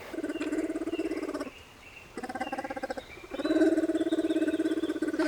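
Spectacled bear calling during courtship: three pitched, rapidly pulsing calls, the last one longest and loudest.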